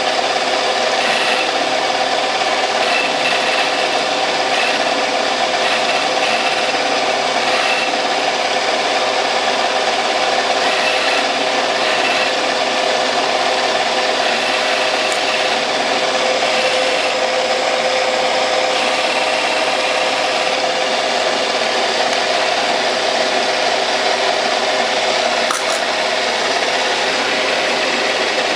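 Metal lathe running steadily with the cutting tool taking a light cut on the spinning workpiece: a continuous scraping of the cut over the machine's steady hum.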